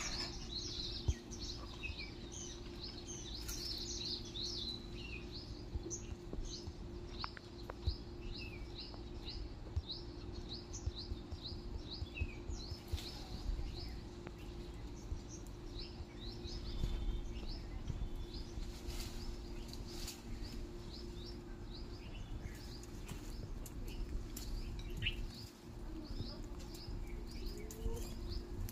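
A small bird calling over and over, a short high chirp falling in pitch about twice a second, with other chirps mixed in, over a faint steady hum.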